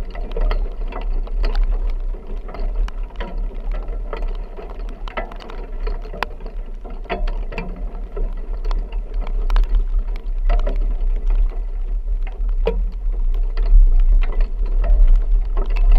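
Steady low rumble of a vehicle on the move in a rain storm, with irregular sharp taps and clicks all through. It gets somewhat louder near the end.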